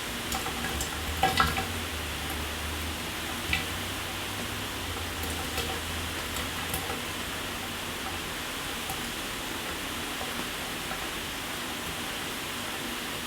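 Shower water spraying steadily onto a surface as a constant hiss with fine crackle, with a few louder sharp splashes about a second in and again a little after three seconds.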